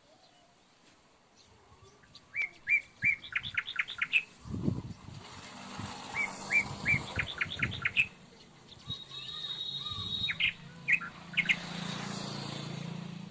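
A small bird chirping in quick runs of short, high chirps: two runs of about eight chirps each, then a few single chirps near the end.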